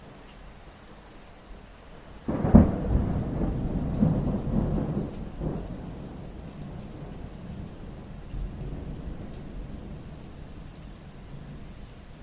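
Steady rain with a clap of thunder about two seconds in that rumbles on and fades over the next few seconds, followed by a fainter rumble later.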